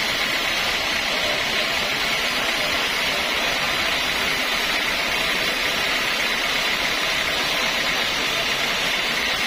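Sawmill machinery running, a steady, unbroken noise with no strokes or pauses.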